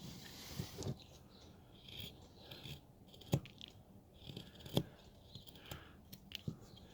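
Carving knife cutting and shaving a hard wooden figure: a series of short cutting and scraping strokes, with two sharper snicks about three and a half and five seconds in.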